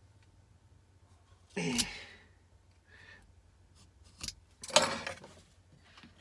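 A man's breathy exhalations, twice, the first with a bit of voice in it and the second noisier, with a short click just before the second.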